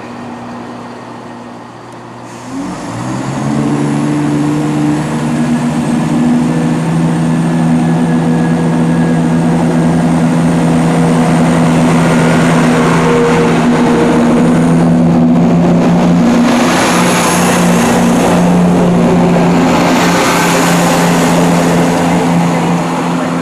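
Diesel multiple unit train's engines powering up about two and a half seconds in, then running loud and steady as the train moves off.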